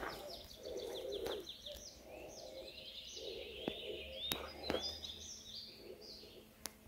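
Several songbirds singing: a fast trill of repeated notes at the start, then rising whistled notes. A few sharp clicks fall in between.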